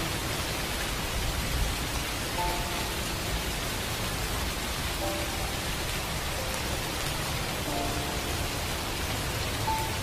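Steady hiss of light rain. A few faint, soft music notes come in now and then.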